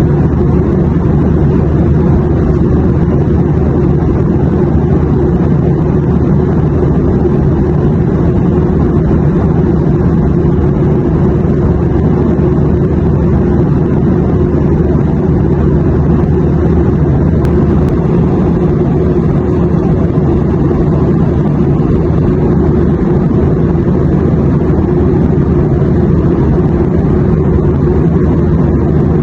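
Airliner cabin noise in flight: a steady, unbroken low rumble of engine and airflow.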